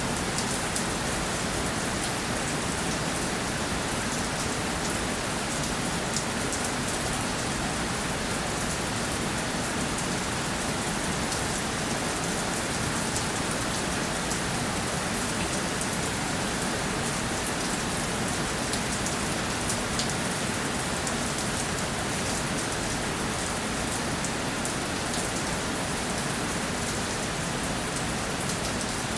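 Steady rainfall, an even hiss of rain with many small drop ticks.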